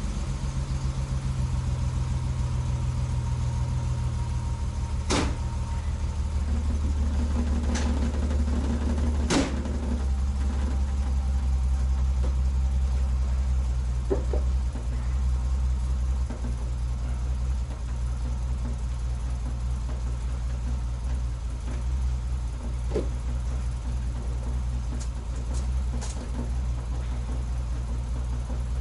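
Datsun 240Z's L-series straight-six engine idling steadily, with a few sharp clicks over the hum: about 5 seconds in, twice around 8 to 9.5 seconds, and again near the end.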